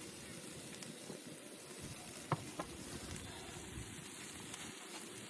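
Beef rib meat sizzling on a grill, a steady frying hiss with a couple of sharp pops a little over two seconds in.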